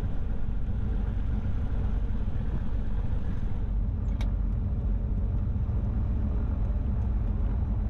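Light airplane's piston engine running steadily at low power while holding for takeoff, heard from inside the cockpit as a steady low rumble. A brief sharp click sounds about four seconds in.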